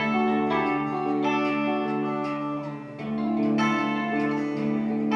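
Live rock band playing an instrumental passage between sung lines, led by guitar with plucked notes and chords over sustained bass notes.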